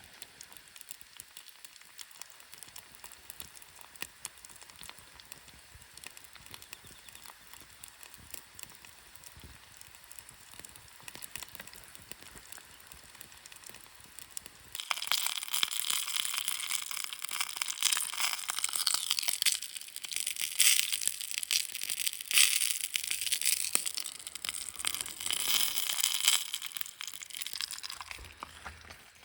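Soft, sparse crackling at a campfire. About halfway through, a much louder, dense crackling sizzle starts suddenly and carries on, easing off near the end.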